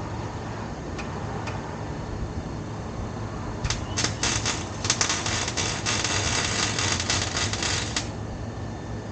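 MIG welder tacking an exhaust pipe: a dense, even crackle that starts a little under four seconds in and stops about four seconds later, over a steady low hum.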